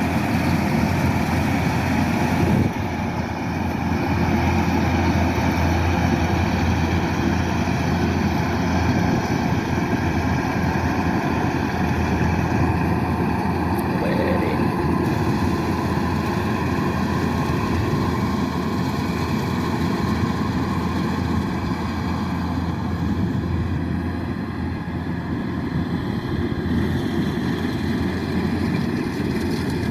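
Kubota DC-108X rice combine harvester's diesel engine running steadily, a continuous machine drone, with a brief dip in level about two and a half seconds in.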